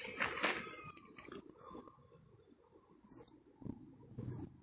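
Rustling of leaves and twigs at first, then a few scattered short high-pitched chirps.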